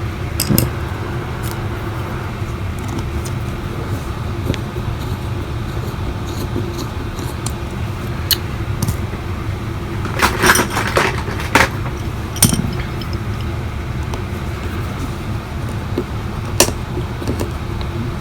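Scattered small clicks and taps of a precision screwdriver and tools against an iPhone SE's frame, with a cluster of quicker clicks about two-thirds of the way through, as the driver works at a stripped battery-bracket screw. A steady low hum runs underneath.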